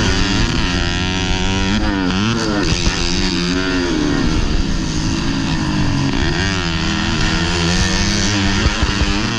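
Modified underbone (bebek) race motorcycle engine heard from on board, revving up and dropping back again and again as the rider works the throttle and gears around the track.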